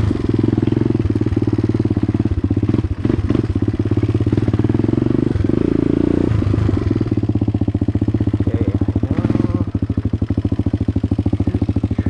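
A 2008 dirt bike's engine runs loud, its exhaust harsh because the silencer has little packing left. Its firing pulses grow more distinct after about seven seconds, and a few knocks come about three seconds in.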